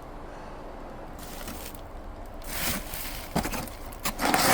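Rustling and handling noises: a few short scrapes and knocks as boxed parts are moved about.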